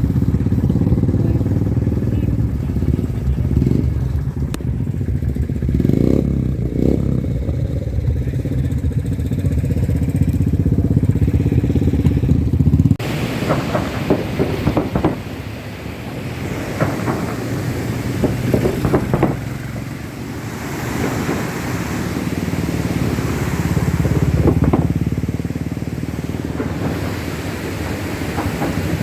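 Motorcycle engine running steadily while riding. About halfway through, the sound changes abruptly to heavier wind and road noise over the engine.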